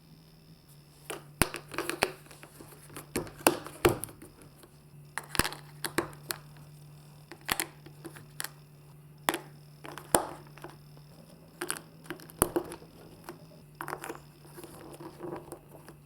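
Marbles clicking and clacking irregularly as they run through a plastic block and magnet marble-run course, over a steady low hum.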